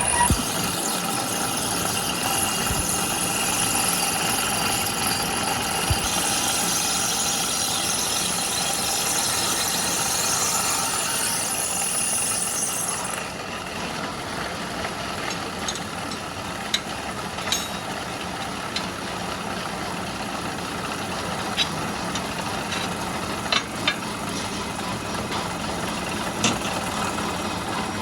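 Steady machinery noise, a hum with several held tones and a high hiss. The hiss drops away about halfway through, after which scattered light clicks and knocks sound.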